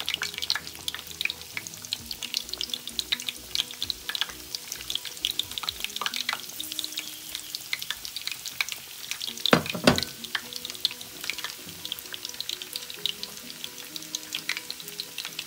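Breaded beef kebabs deep-frying in hot oil: a dense, steady crackle of small pops, with beaten egg being drizzled in and sizzling as it hits the oil. Two louder knocks come about nine and a half seconds in.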